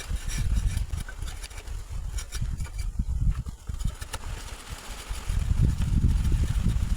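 Wind buffeting the microphone in uneven gusts, easing off in the middle and picking up again near the end, with a few light clicks.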